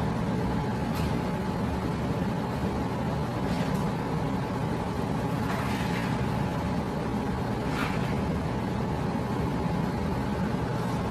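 Steady low rumbling background noise with a faint steady hum and a few soft ticks.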